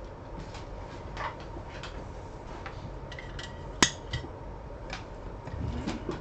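Scattered light clicks and clinks of small metal tools being handled on a workbench, with one sharp, louder click a little past the middle.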